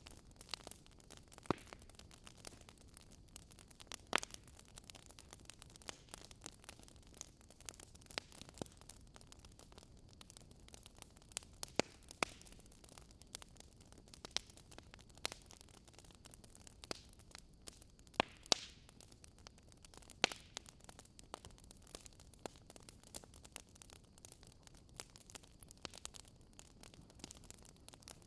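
Campfire crackling: irregular sharp pops and snaps of burning wood over a faint steady hiss, with a handful of louder pops scattered through.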